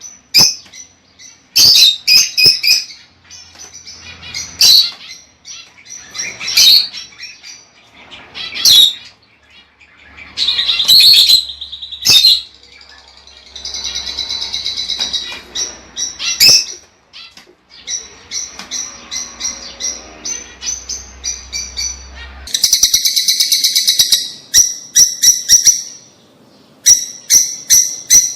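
Lovebirds calling: loud, sharp, high-pitched chirps and shrieks, some single and some in quick runs, ending in a fast series of short repeated chirps.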